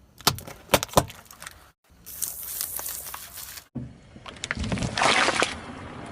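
Objects being crushed under a car's tyres, in three short cuts: first several sharp cracks and pops, then a rough crunching, then a low rumble and cracking that rises into a loud hissing crunch near the end.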